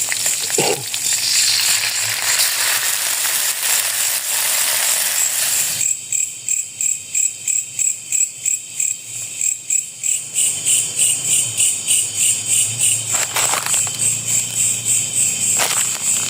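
Night insects: a dense high hiss of insect noise, which from about six seconds in turns into rhythmic chirping of two to three pulses a second over a steady high trill.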